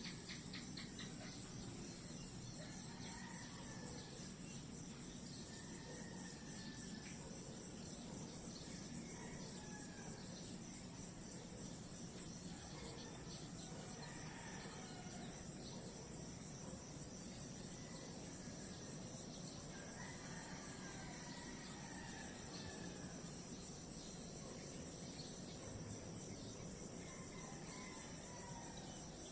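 A steady high-pitched insect trill, cricket-like, running on without a break, with a faint background haze and scattered short calls that curve up and down.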